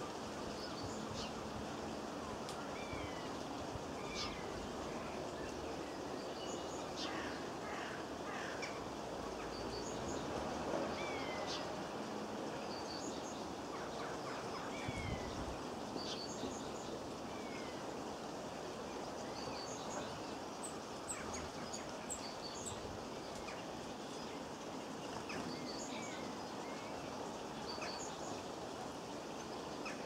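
Small garden birds calling: short chirps and brief falling notes every second or two, over steady background noise.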